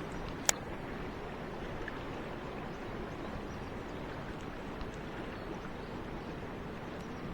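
Mountain stream water rushing steadily, with one sharp click about half a second in.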